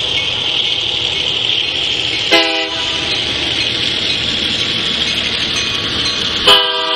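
Union Pacific freight train rolling past with a steady rumble of wheels on rail. Its locomotive horn gives a short blast about two and a half seconds in and starts sounding again near the end.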